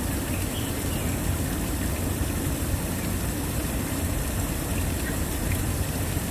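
Waterfall: water falling and rushing in a steady, unbroken roar, heaviest in the low pitches.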